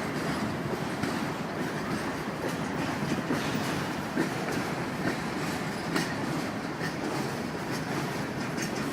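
Freight train cars rolling past: a steady rumble of steel wheels on rail, with sharp clicks as wheels cross rail joints, the loudest about four and six seconds in.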